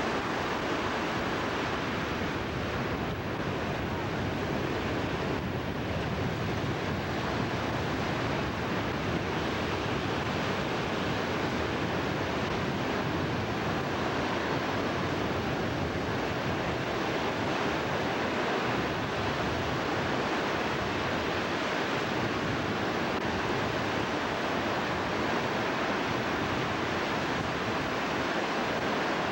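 Steady rushing noise of a vehicle travelling a rough dirt road, with wind on the microphone and no distinct engine tone.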